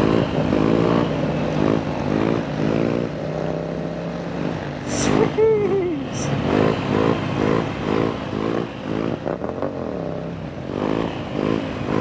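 Motorbike engines revving in quick repeated throttle blips, about two rising revs a second, over another engine running steadily underneath, with a brief louder note about five seconds in.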